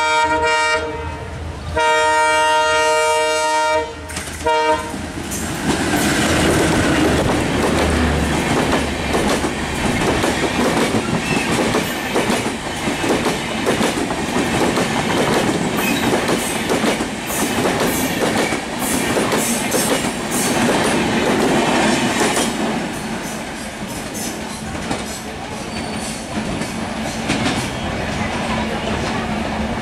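Diesel locomotive's multi-tone horn sounding twice as it approaches, a short blast and then a longer one of about three seconds, over a low engine rumble. The locomotive and its passenger coaches then pass at speed, wheels clattering over the rail joints in a steady rushing din.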